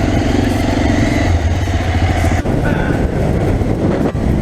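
Motorcycle engine running steadily while riding, with an abrupt change in the sound about two and a half seconds in and again near the end.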